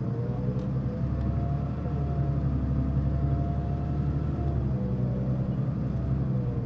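Mitsubishi Fuso Aerostar (LKG-MP37FK) city bus under way, its diesel engine pulling under fairly heavy throttle with a deep rumble and a whine that rises and falls in pitch. This bus is known for making a considerable abnormal noise.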